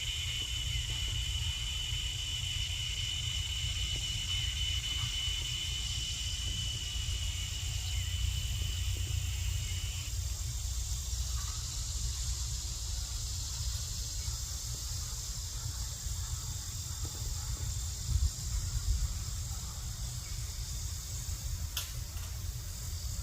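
Steady high-pitched insect trilling, one strand of it stopping about ten seconds in, over a low fluctuating rumble like wind on the microphone.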